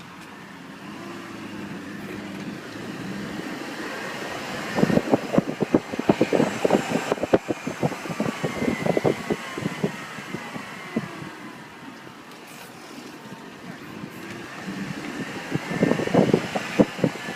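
2001 BMW 330ci's straight-six engine running with a high whine that glides up and down in pitch. Two long stretches of irregular rumbling noise lie over it. This is the jet-like whine the owner hears only from a cold start, and it fades once the engine warms up.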